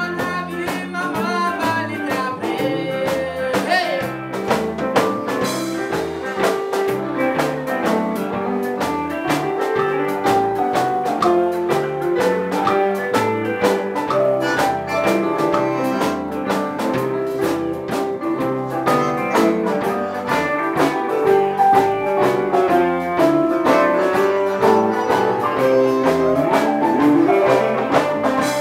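A live band playing an up-tempo number with a steady beat.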